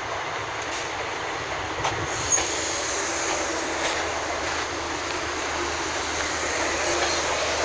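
Locomotive-hauled passenger train, a Class 90 with Mk3 coaches and driving van trailer, moving slowly through the station with steady running noise. A faint high wheel squeal comes about two seconds in.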